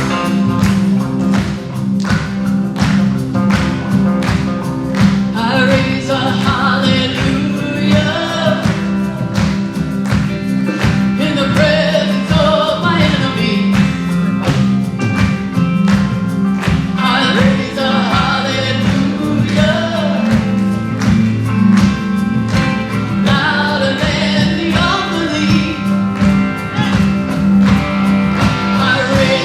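Live worship band playing a song with a steady beat, with singing over it in drawn-out phrases.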